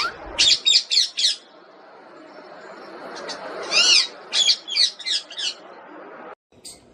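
Pet parrot squawking and chirping in two short runs of quick calls, one near the start and another around the middle.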